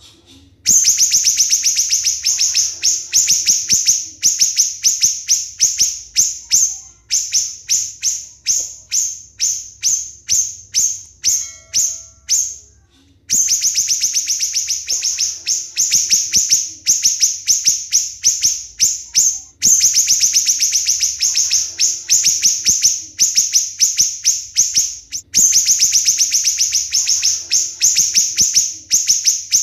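Siri-siri songbird singing long runs of rapid, shrill, close-set notes, several a second, with a short break about halfway through. This is the tight, staccato 'tembakan' song that is prized as a tutor recording for competition birds.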